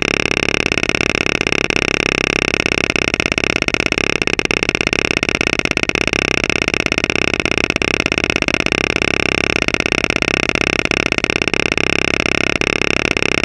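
Dump bed hoist's electric-hydraulic pump motor running steadily under load, a loud, even whine with a fast buzz in it, as the hoist works the bed.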